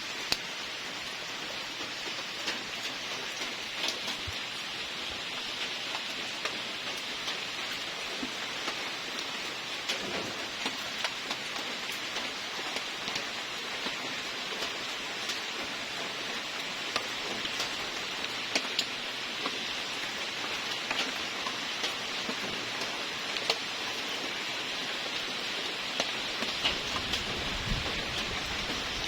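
Steady rain falling: an even hiss with many scattered ticks of drops landing.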